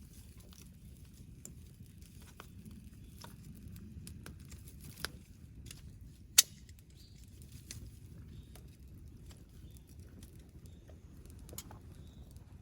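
Wood campfire crackling, with scattered sharp pops over a low steady rumble; one loud pop about six seconds in.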